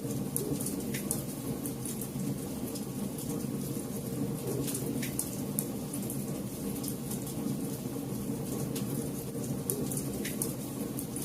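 Campfire burning: a steady low rumble with scattered sharp crackles and pops throughout.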